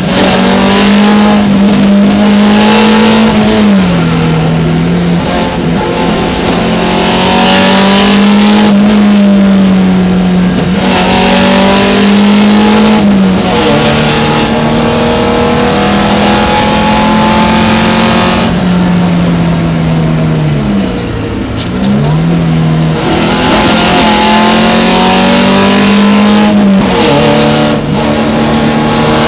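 Alfa Romeo 33 4x4's 1.7 16-valve flat-four engine at racing pace, heard from inside the cabin, climbing in pitch through the revs and dropping back sharply at each gear change. It briefly comes off the throttle about two thirds of the way through, then pulls hard again.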